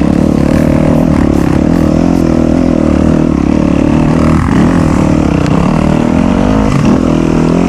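Enduro dirt bike engine running under load, its pitch dipping and recovering a few times as the throttle changes.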